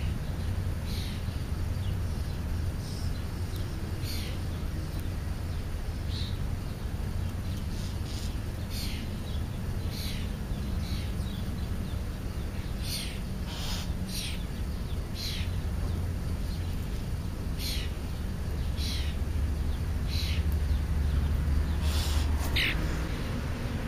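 Birds calling with short, high chirps that fall in pitch, irregularly, about one a second, over a steady low rumble.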